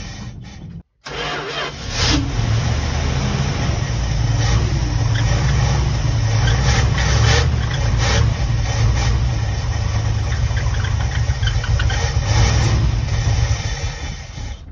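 The 1975 Winnebago Brave motorhome's engine running steadily with a deep rumble, cut off briefly near the start and fading near the end.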